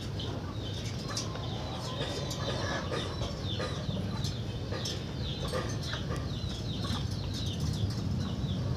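Birds calling: a rapid run of short, high chirps, each falling in pitch, over a steady low background rumble.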